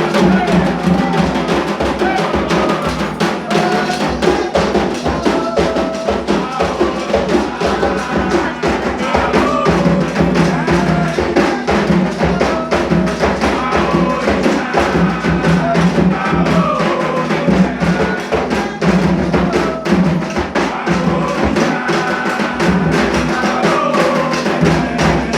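Candomblé ritual music: hand drums beating a dense, rapid rhythm with a struck bell or wood-like percussion, under voices singing.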